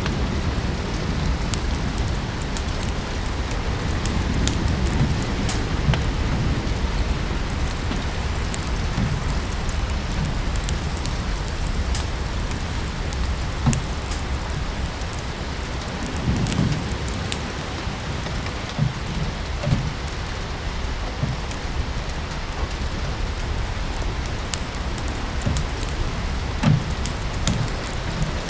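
Steady rain falling, with a wood fire crackling in a fireplace in scattered sharp pops. A low rumble of thunder fades away in the first few seconds.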